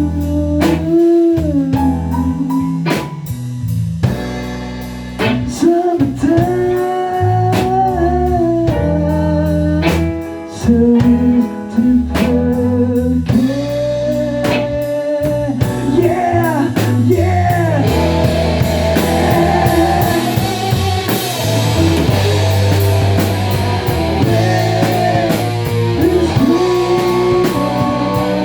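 A band playing a song live: a voice singing over guitar and a drum kit, in a blues-rock manner. About two-thirds of the way through, the cymbals come in fuller and the playing gets denser.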